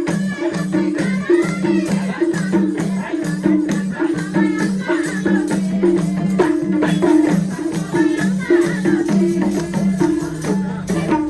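Nepali dohori folk music with a steady, pulsing rhythm and shaker-like rattling percussion. It stops suddenly at the end.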